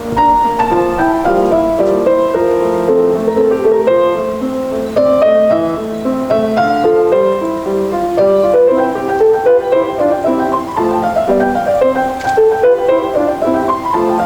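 Solo piano playing a classical piece in a quick, continuous run of notes.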